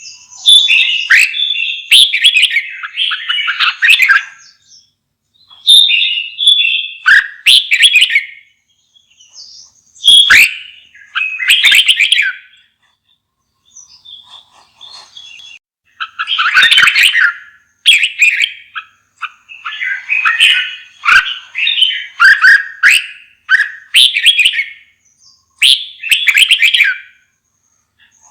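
Red-whiskered bulbul singing: short, quick, bubbling phrases of one to two seconds, repeated with brief pauses, with a quieter gap about halfway through.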